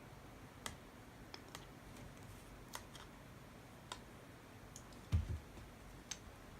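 Scattered light metallic clicks and taps of small engine parts and tools being handled during engine assembly, with one dull thump a little past five seconds in.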